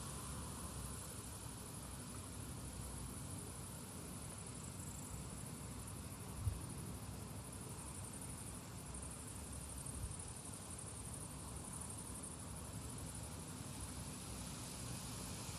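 Wind rumbling on the microphone over a steady high chirring of insects. A short low thump about six and a half seconds in, and a smaller one near ten seconds.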